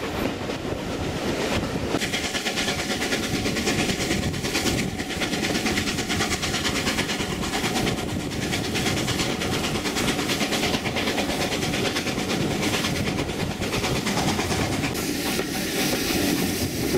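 Steam-hauled passenger train running, heard from a carriage window: a steady rumble of the coaches' wheels on the rails, with repeated clicks as they cross the rail joints.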